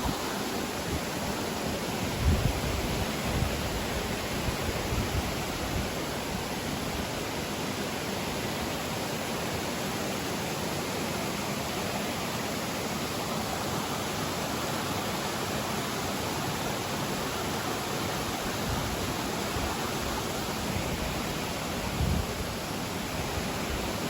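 Steady rushing of flowing water from a mountain stream or waterfall, an even hiss with no change in level, with a couple of brief low thumps about two seconds in and near the end.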